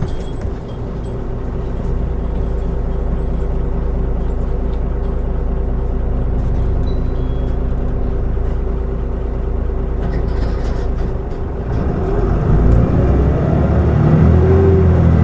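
Mitsubishi Fuso Aerostar city bus (QKG-MP35FP) under way, its diesel engine and road noise making a steady low rumble. About twelve seconds in, the engine note shifts and grows louder.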